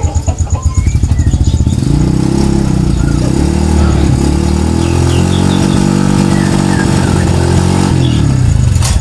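A small engine running close by, first with a low pulsing throb, then from about two seconds in a steadier, higher-pitched drone that fades just before the end. Faint bird chirps sound over it.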